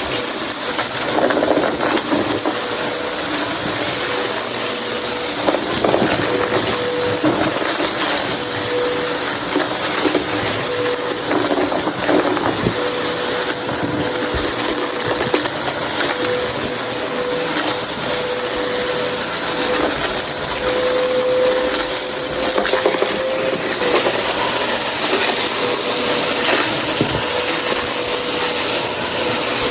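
A vacuum cleaner running steadily with a hum and strong suction hiss, picking up crunchy dry debris that crackles and rattles through it. Its hiss shifts in character a little over three-quarters of the way through.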